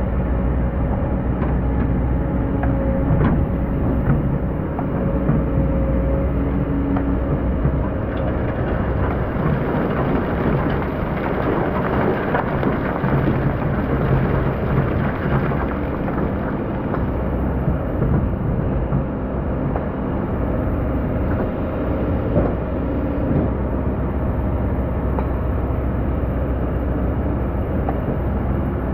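Hydraulic excavator's diesel engine running under load with a steady drone, over a gritty crackling noise, strongest about halfway through, from the bucket working through hard-packed old sand.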